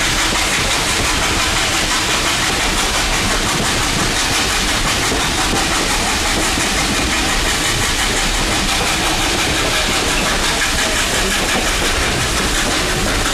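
Passenger train rolling steadily along the track, heard from aboard: a continuous rumble and rattle of wheels on rails and car noise.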